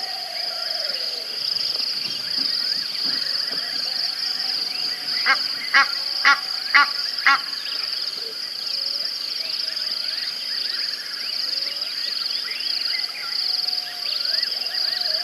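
Outdoor natural ambience: birds chirping and calling over a steady high-pitched drone. A little past a third of the way in, a bird gives five loud call notes about half a second apart.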